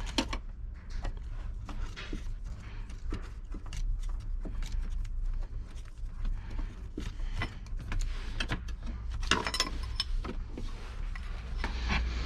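Irregular clicks, taps and rattles of hands and tools working on loose trim parts and fasteners while dismantling a car's interior, with a brief squeak about nine seconds in. A steady low rumble of wind sits underneath.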